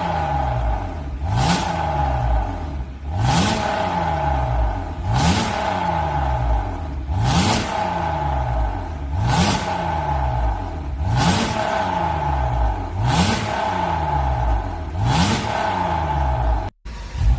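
Hyundai Grandeur IG's engine through a custom variable-valve exhaust, blipped from idle over and over: the exhaust note rises sharply and falls back about every two seconds, eight times. It breaks off for an instant near the end.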